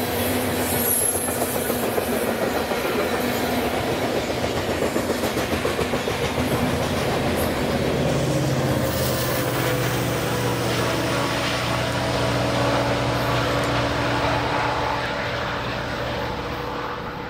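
Freight train cars rolling past, wheels clicking over the rail joints. About halfway through, a steady diesel locomotive engine hum joins in.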